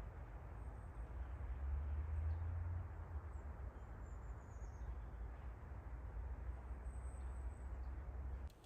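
Steady wind ambience in a winter forest, with a low rumble and a few faint, high bird chirps now and then. The sound cuts off abruptly just before the end.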